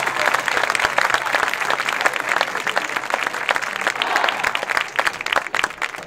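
Audience clapping and cheering in a stadium crowd, the applause gradually dying away toward the end.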